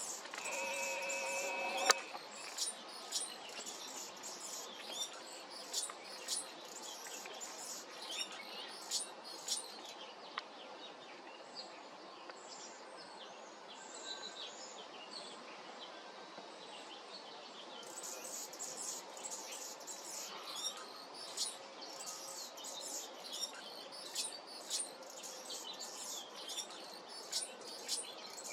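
A hummingbird chirping: many short, high, rapid chirps in bursts, with a sparser stretch in the middle. The clip opens with a steady tone that stops with a sharp click about two seconds in.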